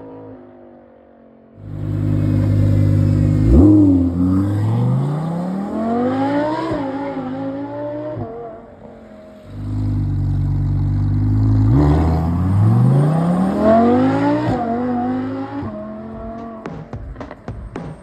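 Audi R8's 5.2-litre V10 through a TFL Italy valvetronic exhaust, run hard in two loud pulls. Each pull comes in suddenly, and the note climbs steeply in pitch before easing off.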